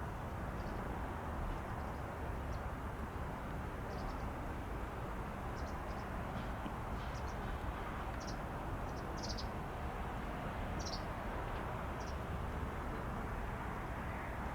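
Short high bird chirps, about a dozen scattered through, over a steady low rushing background noise.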